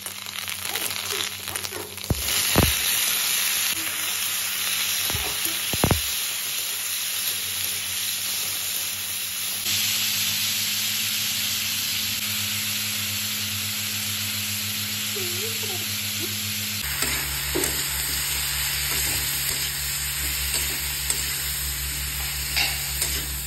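Hot oil sizzling steadily in a kadhai as curry leaves and then chunks of raw green mango fry in a mustard-seed and red-chilli tempering. A metal spatula stirs and scrapes, and knocks sharply against the pan a couple of times in the first six seconds.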